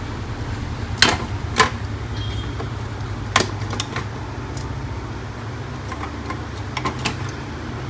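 Sharp plastic and metal clicks and knocks from printer parts being handled and fitted during reassembly, a few separate clicks with a small cluster near the end, over a steady low hum.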